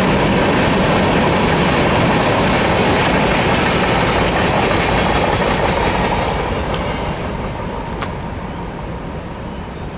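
Covered hopper cars of a Norfolk Southern freight train rolling past, steel wheels running on the rails. The sound fades over the last few seconds, with a short click near the end.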